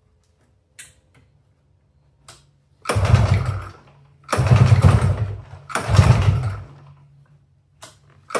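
A 1996 Polaris Sportsman 400's two-stroke engine being started on choke: it fires in three short bursts, each about a second long before dying away, with a fourth starting right at the end. It catches briefly but won't keep running, a sign that it is short of fuel.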